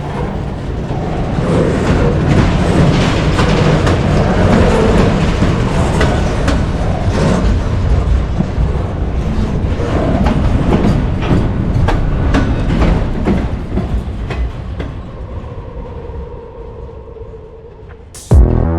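Freight train rolling by: a steady rumble of wheels with repeated clicks over the rail joints, fading away in the last few seconds.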